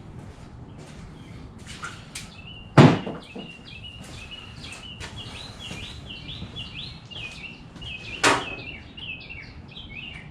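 A bird chirping in quick, repeated notes, with two sharp clanks about three seconds in and again about eight seconds in, louder than the chirping. A few light clicks come before the chirping starts.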